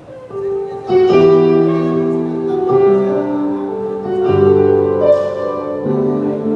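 Electronic keyboard playing held chords through a band's PA system during a sound check, the chord changing about every second and a half.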